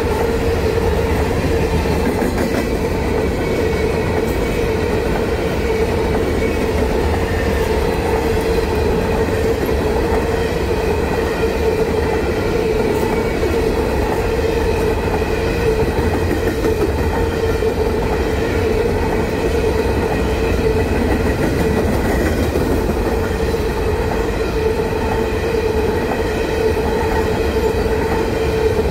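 Freight train of covered hopper cars rolling past at close range: a loud, steady rumble of steel wheels on rail, with a steady tone running through it.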